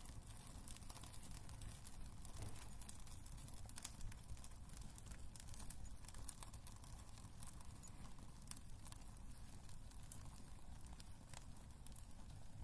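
Wood fire burning in a fireplace: a low steady rumble with irregular crackles and pops from the burning logs.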